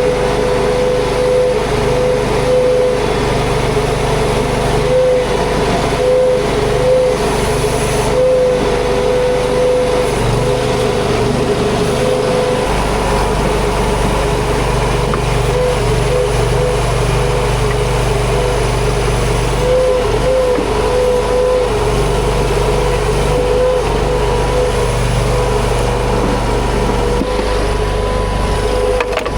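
Huayee LHY480 mini track skid steer running steadily under work, its engine droning with a steady whine; the low rumble shifts abruptly several times.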